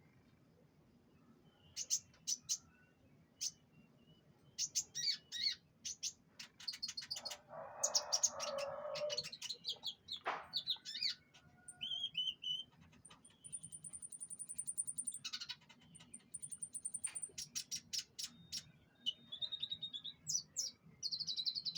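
Canary singing: bursts of quick high chirps and rolling trills, including a long, even, very high trill about halfway through. A short scratchy burst of noise sounds under the song a few seconds after it starts.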